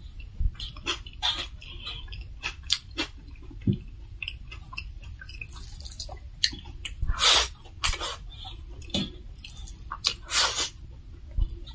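Close-up eating sounds of a person eating rice by hand: wet chewing and lip smacks, with fingers squishing and mixing rice on a metal plate. There are many short clicks and smacks, and the loudest come about seven and ten seconds in.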